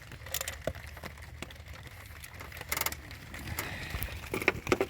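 Scattered small clicks and light rubbing of ignition wires and their boots being handled and pushed onto a new distributor cap, with a brief scrape about three seconds in and a few sharper clicks near the end.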